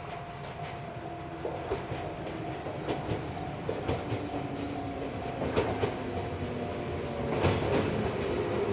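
Old JNR-type electric train running on jointed track, its wheels clicking over the rail joints under a steady rumble. The motor whine drops in pitch and grows louder in the last few seconds as the train slows.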